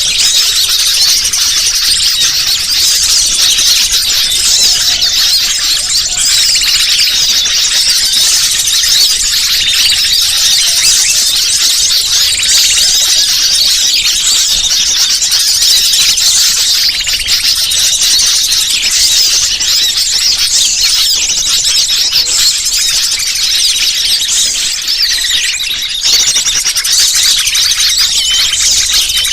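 Bird-lure (pikat) call track: many small birds chirping and twittering at once in a continuous, loud, high-pitched chorus, played to draw wild birds in.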